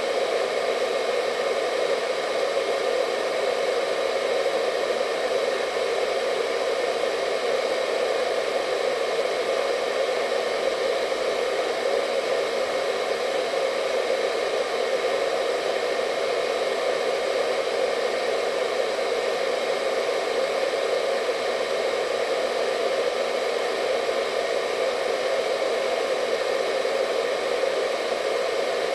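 Hair dryer running steadily: an even rushing hum from its fan and airflow, with a few faint steady whine tones over it and no change in speed.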